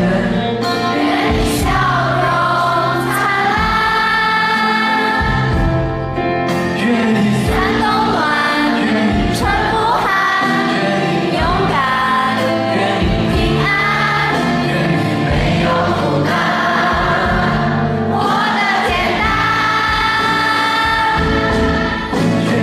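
Live pop ballad performance: band accompaniment with sung vocal lines and long held notes, with a choir-like group sound in the voices.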